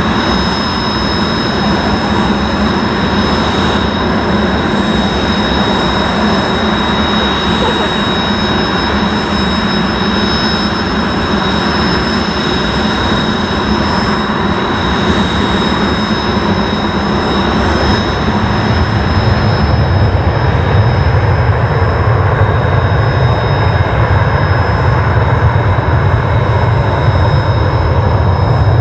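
F-35A fighter's jet engine running, a loud steady roar with a high whine on top. About 20 s in the sound deepens, with a stronger low rumble and a weaker whine.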